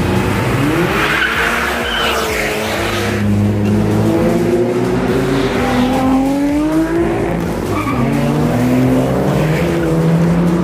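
Car engines revving and accelerating, several pitches rising and falling over one another.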